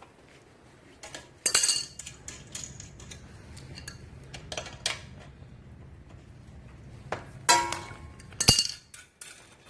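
Metal tools and bolts clinking against the steel body of a hydraulic log splitter as its front bolts are undone: a few sharp, ringing metallic clinks, the loudest about a second and a half in and twice near the end.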